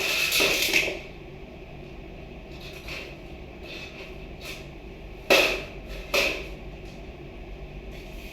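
Sharp knocks and bangs: a burst of them at the start, two loud ones about five and six seconds in, and a few fainter ones between, over a steady hum.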